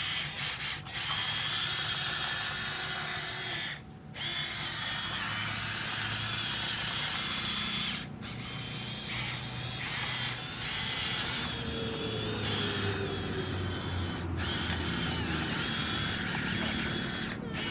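Electric motor and gearbox of a Huina 1573 radio-controlled toy dump truck whining steadily as it runs. It stops for a moment four times.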